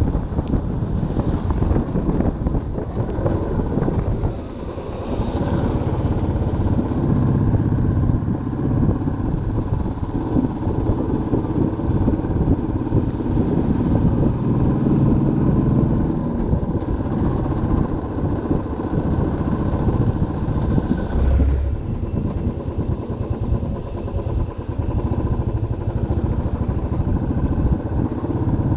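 Motorcycle engine running under way, with wind and road noise; the engine note dips briefly about four seconds in.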